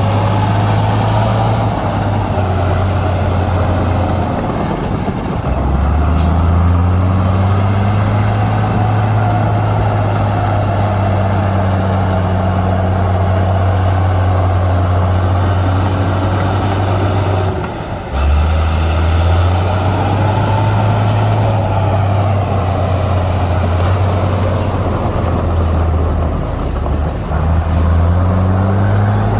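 Heavy diesel engine of earthmoving machinery running steadily under load. It revs up several times, its pitch rising each time, with a brief drop in loudness a little past the middle.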